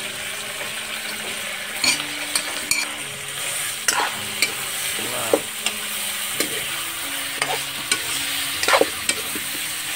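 Chicken, onion and pounded garlic sizzling steadily in oil in a metal kadai, as a steel ladle stirs the pan and scrapes and knocks against its side now and then.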